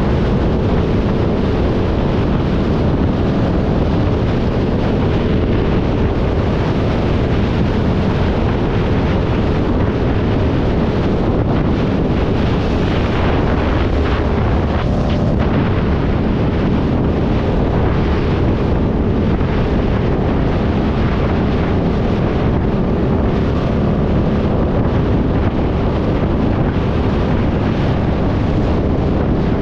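Heavy wind buffeting the microphone of a moving motorcycle, with the steady drone of the bike running underneath.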